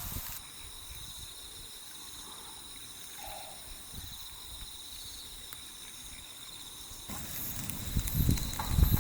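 Steady chorus of insects trilling in several high, unbroken bands. About seven seconds in, a louder rustling, rumbling noise comes in over it.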